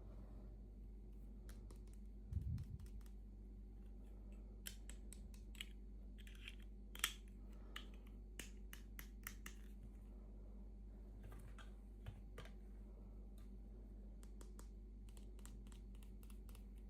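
Small, irregular clicks and taps of hands handling miniature plastic toy pieces and packaging, with a low bump about two and a half seconds in and a sharper click about seven seconds in, over a faint steady hum.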